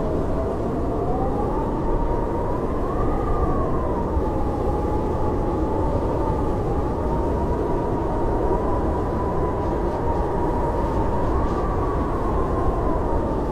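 Blizzard wind howling steadily: a deep rushing roar with a thin whistle that slowly wavers in pitch, rising and falling.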